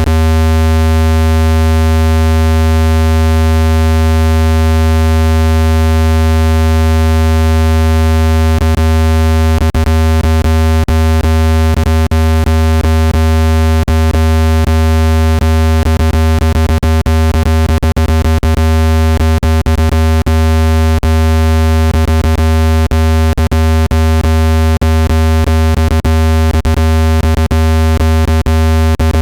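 Loud, steady, low-pitched synthesized tone with many overtones, a speaker-cleaning tone meant to vibrate dust out of a phone speaker. Scattered clicks run through it, more often in the second half.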